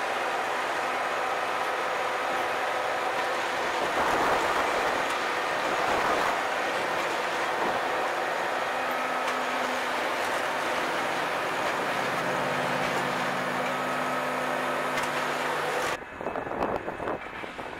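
A train running past: a steady rumble with a diesel engine's hum. The sound changes abruptly near the end to rougher, gusting noise.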